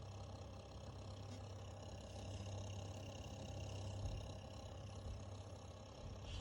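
Corsair H115i RGB Pro XT all-in-one liquid CPU cooler running with a continuous rough rattle over a steady low hum: an abnormal noise from a brand-new, just-installed unit.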